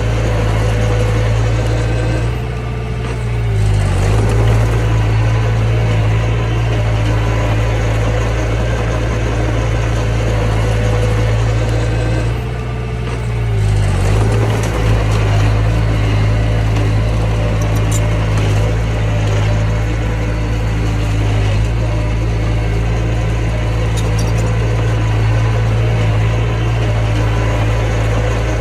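Mini bulldozer's diesel engine running steadily while working. It sags twice, about three seconds in and again about thirteen seconds in, then picks back up.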